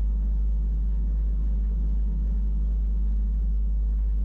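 Steady low rumble of a Wengernalp Railway electric rack-railway train running, heard from on board.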